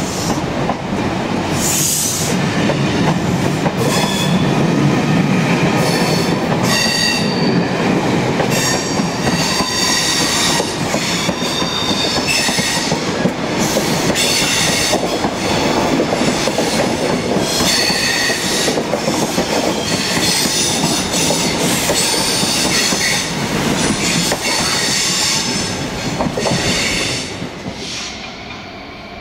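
Passenger train running along the station platform: a steady rumble of wheels on rail, with high-pitched wheel squeal that comes and goes repeatedly. The sound drops away near the end.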